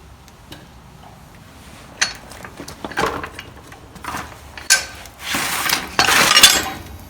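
Metal parts of a tractor's three-point lift-arm joint being handled: quiet at first, then a few sharp clinks and knocks from about two seconds in, and two rasping scrapes near the end, the last the loudest.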